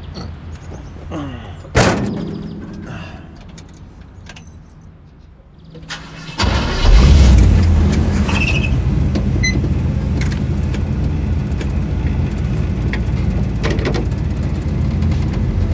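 A car door shuts with a sharp knock about two seconds in. About six seconds in, the V8 swapped into a 1953 Chevrolet Bel Air hardtop starts, flares up briefly, then settles into a steady idle through its motorcycle fishtail exhaust tips.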